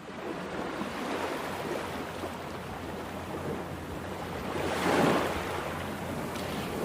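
Rough sea surf, a steady wash of breaking waves, with one louder wave crashing about five seconds in.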